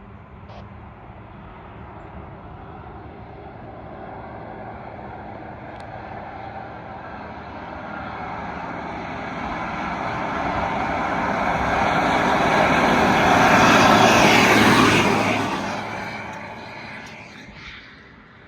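A fire truck's engine and tyres approaching, growing louder over about a dozen seconds and loudest about 14 seconds in, then passing and fading away quickly.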